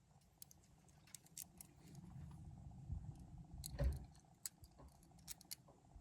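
Light metallic clicks and taps of small engine-bay bolts being handled, unscrewed and threaded in by hand, with a dull knock a little under four seconds in.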